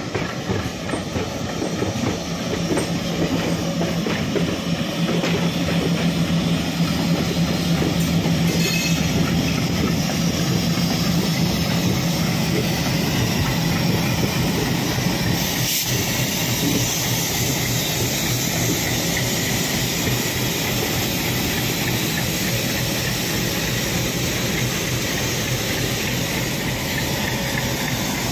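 Two passenger trains running side by side: steady wheel-on-rail rolling noise and clickety-clack over rail joints, with the engine of an Indian Railways diesel locomotive running close alongside, a low steady hum through the first half.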